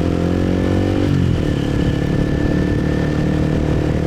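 Motorbike engine running as it rides: the engine note climbs slowly, drops sharply about a second in as the revs fall, then holds steady.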